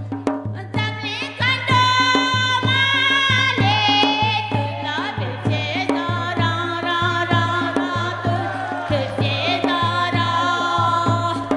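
A song: a voice singing long, wavering held notes over a steady fast beat, in a folk style.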